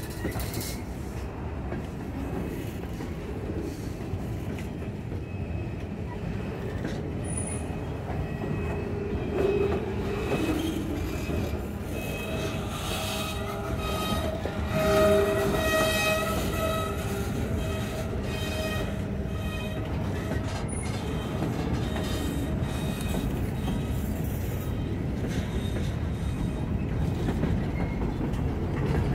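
Freight cars rolling past on the rails, a steady rumble of wheels and running gear. Around the middle, a high ringing tone rises over it for several seconds, then fades.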